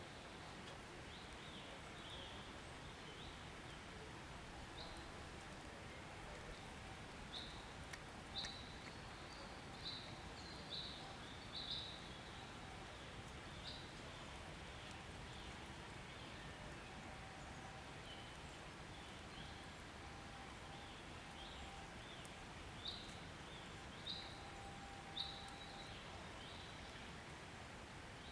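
Outdoor ambience: short, high bird chirps at irregular intervals, often in quick clusters, over a faint steady background hiss.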